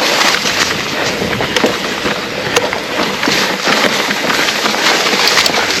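Trek Rail 7 electric mountain bike ridden over rough trail through bracken: a steady rush of tyre and brushing noise with frequent small knocks and rattles from the bike.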